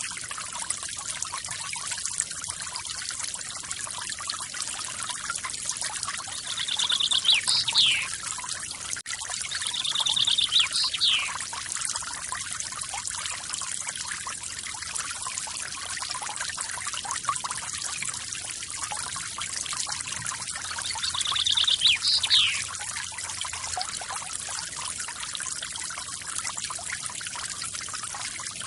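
Forest waterfall splashing and trickling steadily, with a bird calling three times over it; each call is a short rapid trill ending in a quick falling note.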